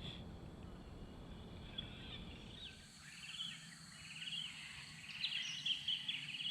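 Birds calling faintly with short chirps and quick trills, starting about two and a half seconds in, over a low, even background noise.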